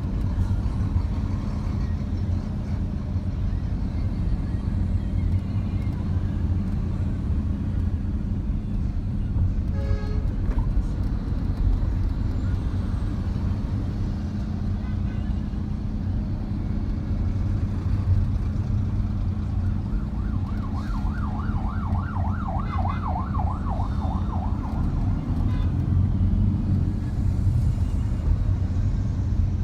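Steady roadside traffic rumble from trucks and cars passing. A short horn sounds about a third of the way in. About two-thirds through, a siren yelps rapidly up and down for a few seconds.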